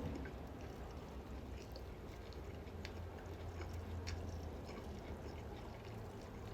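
Close-miked open-mouth chewing with lip smacking: scattered soft wet clicks over a steady low hum.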